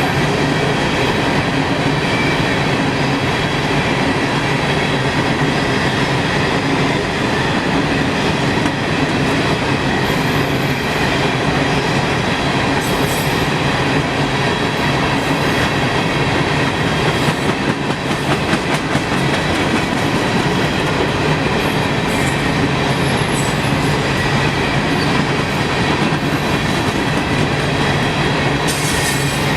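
A train rolling past, a steady loud rumble of steel wheels on rail with rapid clicking over the rail joints.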